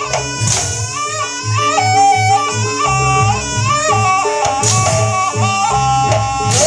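Jaranan Buto ensemble music: a reed trumpet (slompret) plays a wavering, reedy melody over a steady low drum beat, with cymbal crashes about half a second in and again near the end.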